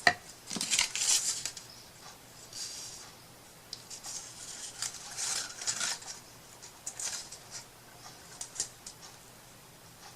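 Hand-working noises as a trim strip is pressed and worked around the edge of a wooden clock box with a small tool: irregular scraping and rustling swishes with a few small clicks and taps, a sharp click right at the start.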